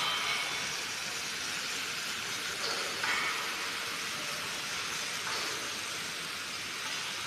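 Electric arc welding: a steady crackling hiss from the welding arc, with a slight jump in level about three seconds in.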